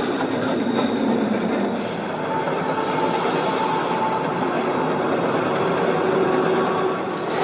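Freight train rolling along the track: a steady, dense rumble and rattle of wheels on rails, with faint thin metallic squeals from the wheels.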